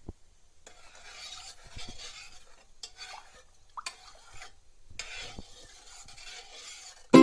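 Soft, irregular scraping and rustling of a utensil stirring in a dish, with a few sharp clicks.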